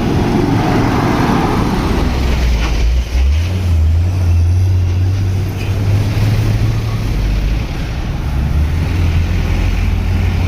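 Heavy truck engine running with a steady low drone, its pitch stepping up slightly about three seconds in.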